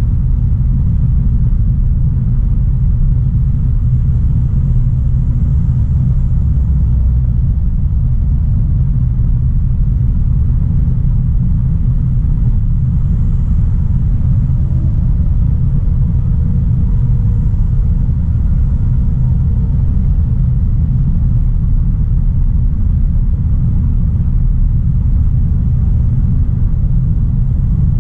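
2016 Audi A3 Sportback 1.4 TFSI (turbocharged four-cylinder petrol) being driven at a steady pace: a continuous low rumble of engine and road noise, with no revving or gear changes.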